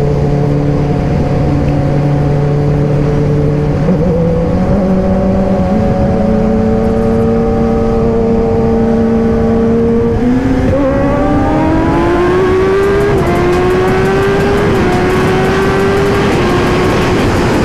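Inline-four superbike engine running at steady revs, stepping up in pitch a few times, then climbing in a rising whine through the second half as the bike accelerates.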